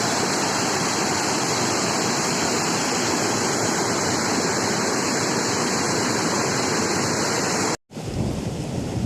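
Steady rushing of running water. Near the end it cuts off abruptly and gives way to a rougher, lower rumbling noise.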